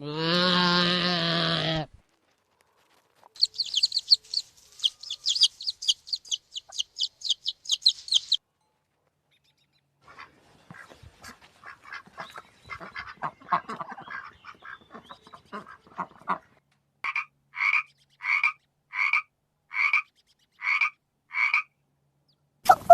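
A run of different animal calls separated by short gaps: a pitched call that ends about two seconds in, then fast high chirping, then a stretch of dense chattering, then about eight short calls evenly spaced, roughly one every half second.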